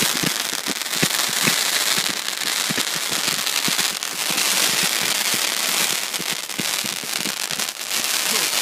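A lit firework burning with a continuous hiss and rapid, irregular crackling pops.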